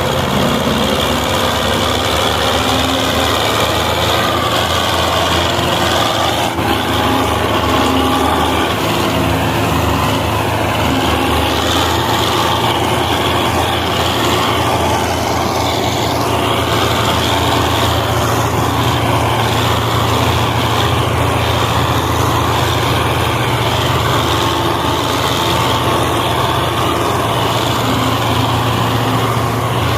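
Belarus 510 tractor's diesel engine running steadily, hauling a heavy sugarcane trolley.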